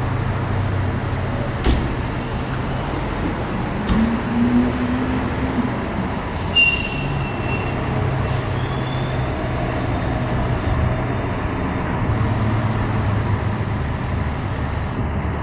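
Heavy vehicle's diesel engine running steadily. There is a brief high squeal about six and a half seconds in and a couple of light knocks.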